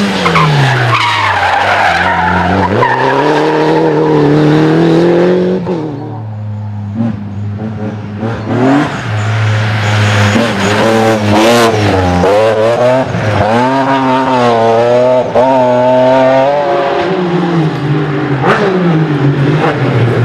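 Rally cars driven flat out on a stage, their engines revving hard. The pitch climbs and drops sharply again and again through gearshifts and throttle lifts, with a fast run of quick rises and falls in the middle.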